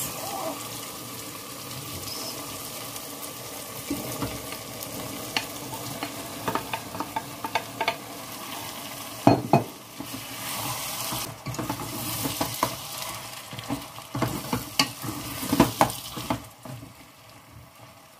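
Onion and pepper base sizzling in oil in a stainless steel pot as cooked black-eyed beans are tipped in and stirred with a wooden spoon, with frequent sharp knocks and scrapes of the spoon against the pot. The sizzle fades near the end.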